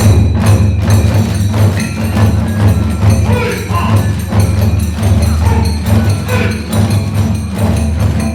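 Kagura hayashi band playing a fast, steady beat: big and small taiko drums with brass hand cymbals (tebyōshi) clashing on the beat and a bamboo flute line over it.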